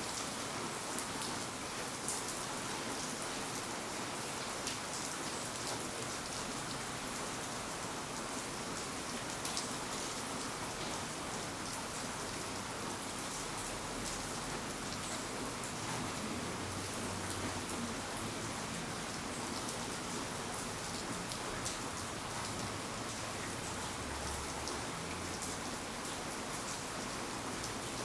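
Steady rain falling, with many separate drop ticks over a constant hiss. A faint low rumble comes and goes in the second half.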